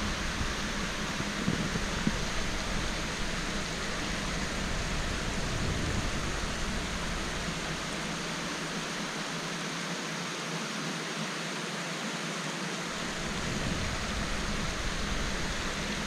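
Steady rush of flowing creek water, an even hiss with no breaks. A low rumble beneath it drops away for a few seconds past the middle and then returns.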